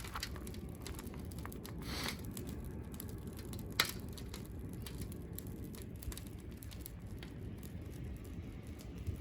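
Wood fire crackling, with scattered sharp pops, the loudest about four seconds in, over a steady low rumble.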